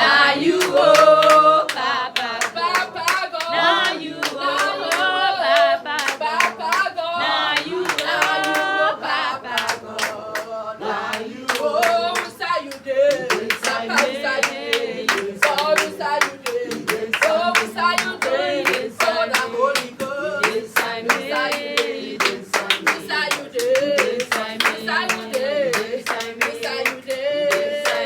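Worshippers singing together with steady rhythmic hand clapping throughout.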